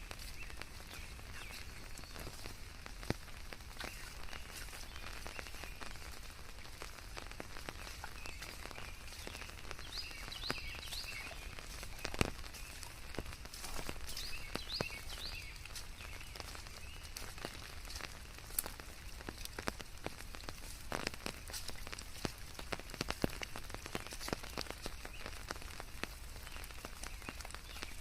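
Steady forest rain over a soft white-noise bed, with many scattered drops ticking on leaves and surfaces. Short groups of high chirps from a small animal come a few times, a little before the middle and near the end.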